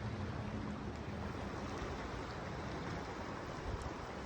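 Steady rushing of the Potomac River rapids at Great Falls, mixed with wind buffeting the microphone.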